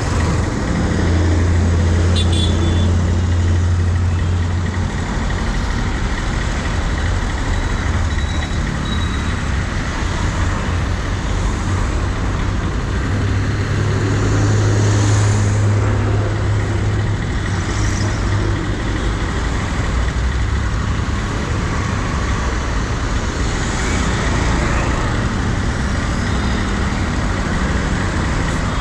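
A KTM Duke 250 motorcycle's single-cylinder engine running through road traffic, with the steady noise of surrounding vehicles. The low engine hum gets louder twice, about a second in and again around the middle.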